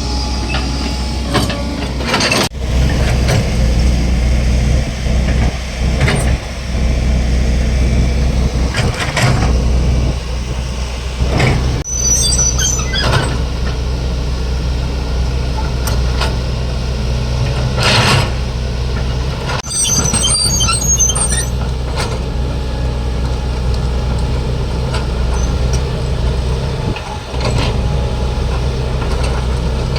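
Heavy diesel excavator running steadily under load, with scattered clanks and knocks from the working machine and brief high squeaks twice.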